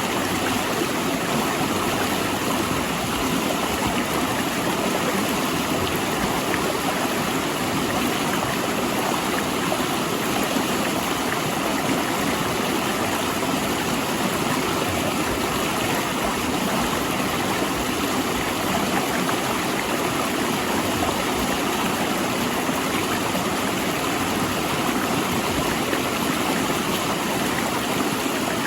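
Fast-flowing mountain river rushing and splashing steadily over and between large rocks.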